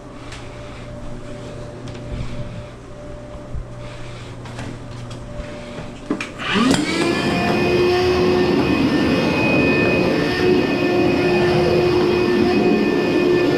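Frigidaire dryer started up about six and a half seconds in: after a sharp click, the motor spins up with a rising whine that settles into a loud, steady running hum. Before that, a low hum with a few light knocks.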